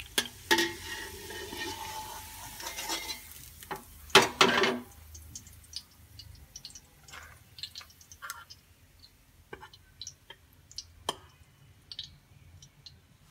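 Raisins frying in oil in a stainless steel stock pot: a sizzle with a metal spoon stirring and scraping. About four seconds in comes one loud metal clatter, then scattered light clicks and taps as the fried raisins are scooped out with a wire skimmer.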